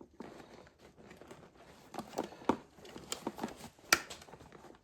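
Hand-handling noises from car-seat and headrest parts being fitted back together: irregular light clicks and knocks with rustling, and one sharp click about four seconds in.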